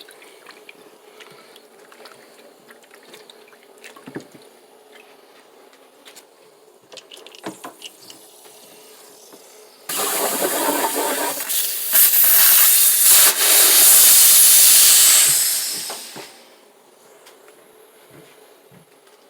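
Water rushing at a sink for about six seconds, starting about ten seconds in and getting louder partway through before fading out. Before it there are only faint handling clicks.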